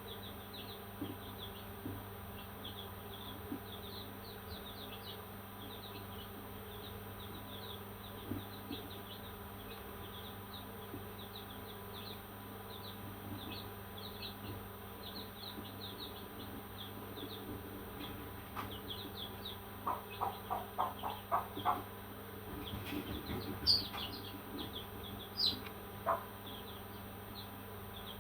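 Parrots chirping: a steady stream of many short, high chirps over a constant hum. There is a quick run of lower calls about two-thirds of the way in, then two louder calls near the end.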